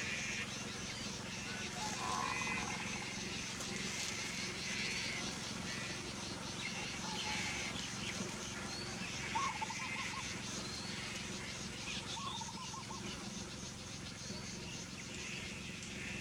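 Rural outdoor ambience: insects chirping steadily in a fast pulsing rhythm, with a few short trilled animal calls about two, nine and twelve seconds in.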